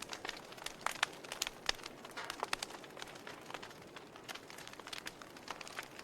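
Campfire crackling: irregular sharp pops and snaps of burning wood over a steady soft hiss of the flames.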